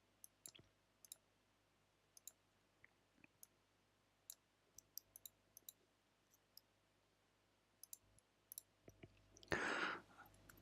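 Faint, irregular clicking of computer keys and mouse buttons during work at a computer, with a short rush of noise about nine and a half seconds in.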